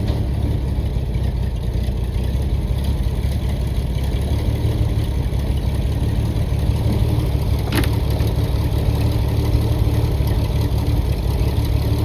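A machine's engine running steadily at a low idle, with one sharp metallic click about eight seconds in.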